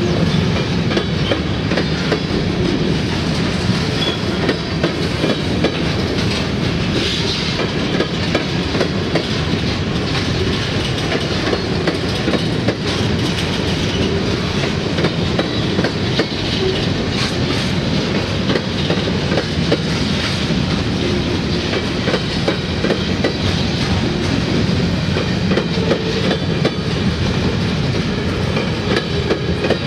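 Covered hopper cars of a freight train rolling past, their steel wheels clicking over the rails with a continuous rumble and rattle that holds steady throughout.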